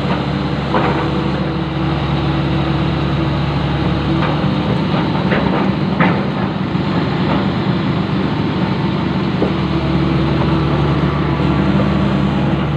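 Long-reach excavator's diesel engine running steadily, with a few short metallic knocks from the machine.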